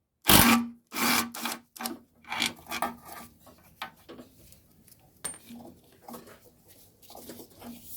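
Socket ratchet with a 13 mm socket ratcheting in a run of short strokes, loud in the first few seconds and fainter and sparser after, as a bolt on the mower engine is undone.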